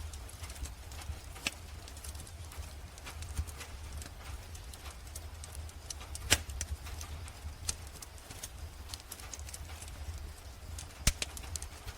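Fireplace crackling: irregular sharp pops and snaps of burning wood, with a louder pop about six seconds in and another near the end, over a steady low rumble.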